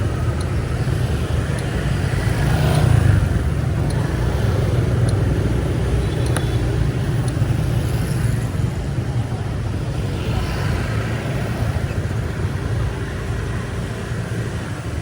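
City street traffic: a steady low rumble of passing vehicles, a little louder about three seconds in.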